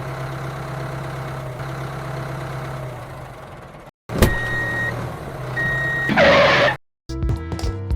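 A vehicle engine running steadily, fading slightly over about four seconds, then cutting off abruptly. After a click come two high electronic beeps about a second apart and a short loud hiss. Music starts near the end.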